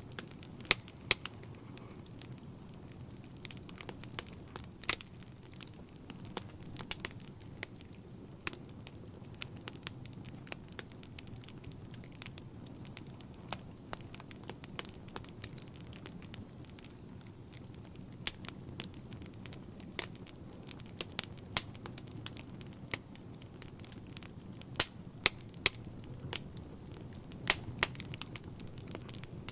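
Fire in a fireplace crackling, with sharp pops at irregular intervals over a low steady rumble.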